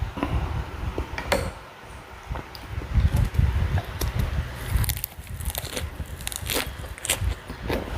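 Close-up eating sounds: biting into and chewing a nem nuong wrap, with crisp crackles and crunches, most of them in the second half.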